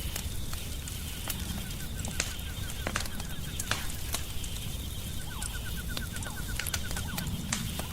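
Wood fire crackling in a fireplace, with frequent sharp pops over a steady low rumble. A rapid run of light ticks sounds twice, from about one and a half to three seconds in and again from about five to seven seconds in.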